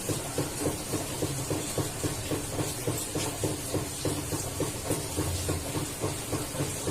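Barbary dove (puter) cooing: low notes pulsing about four times a second, repeated evenly, over a steady low hum.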